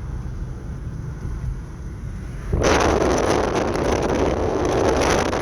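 Steady low road rumble from inside a moving Honda Civic. About halfway through, a loud rush of wind noise sets in and stays strong.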